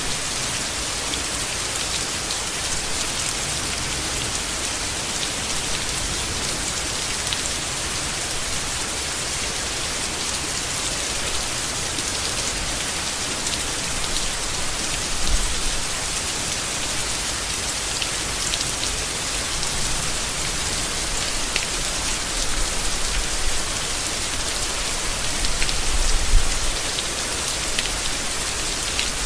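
Steady rain falling on leaves: an even hiss of many drops with fine pattering. There are brief low rumbles about halfway through and again near the end.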